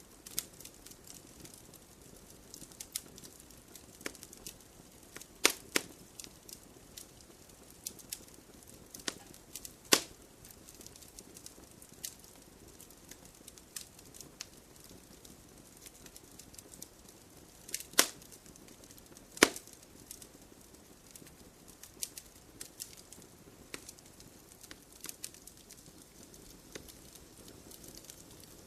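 Wood fire in a stone fire pit crackling: scattered sharp pops and snaps over a faint hiss, with four louder pops, two of them about a second and a half apart in the second half.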